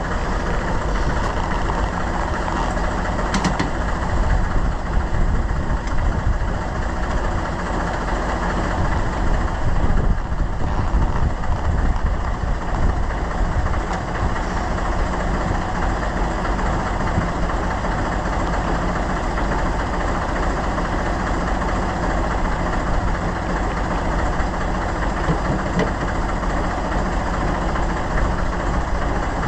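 Engine of a small Volvo BM Buster 320 tractor running steadily.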